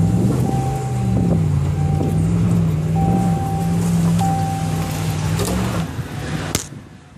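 Off-road vehicle heard from inside the cabin while driving a dirt trail: a steady low engine drone with rumble, rising in pitch at first and then holding. It drops away about six seconds in, and a sharp click follows.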